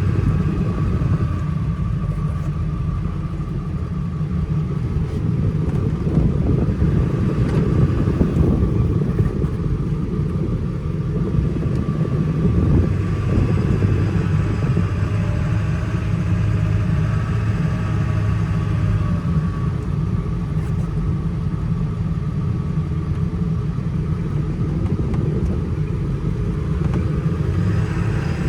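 1999 Ford F-250's 7.3L Powerstroke turbo-diesel V8 running steadily as the truck drives, a low rumble heard from inside the cab, with road noise.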